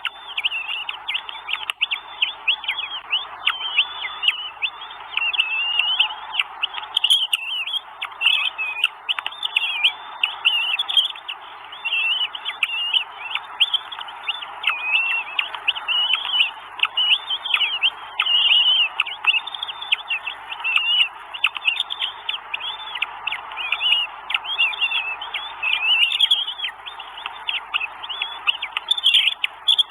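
Northern goshawk nestlings begging at feeding time, a rapid, unbroken stream of high chirping calls.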